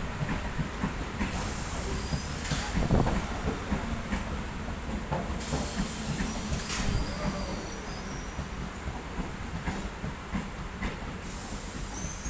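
Local EMU electric train running on the rails, its wheels clattering irregularly over the track.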